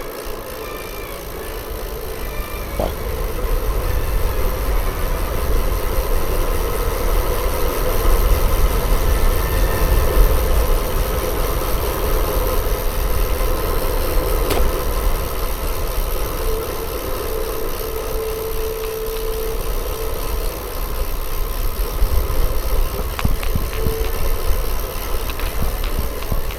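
Steady low rumble of wind and road noise on the microphone while riding a bicycle.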